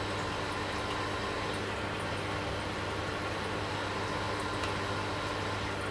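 Vertex Vectra aquarium pump motor running steadily: a constant low hum with a faint tone above it, over a bed of water noise.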